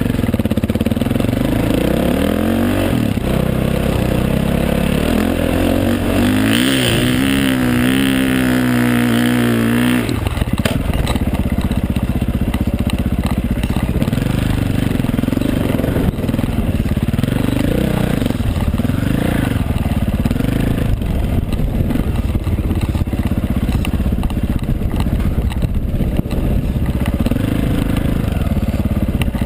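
Dirt bike engine revving hard and easing off in repeated swells, with a long climbing rev from about seven to ten seconds in that cuts off sharply.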